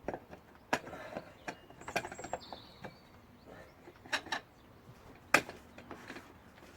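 Small portable washing machine's drum being turned round by hand, its mechanism giving irregular clicks and knocks, the sharpest about five seconds in.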